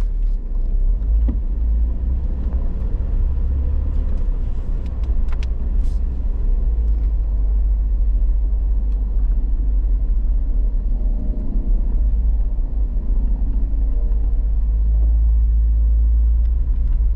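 Off-road truck's engine running under load with a steady low rumble as it drives through deep snow on tyres aired down to about 4 psi, its pitch shifting a little in the middle.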